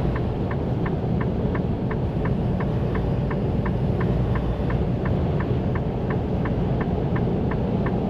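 Steady low engine and road rumble inside a semi-truck cab, with the turn-signal indicator ticking evenly about three times a second.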